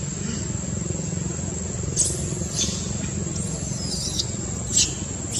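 Four short, high-pitched monkey squeaks, each falling in pitch, starting about two seconds in, over a steady low rumble.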